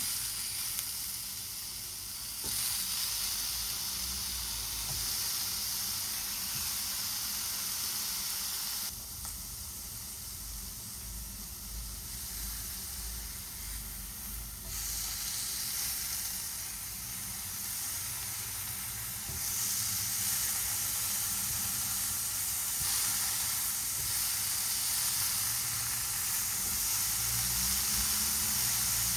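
Food sizzling and hissing in a hot frying pan, a steady spitting hiss that shifts in level abruptly several times.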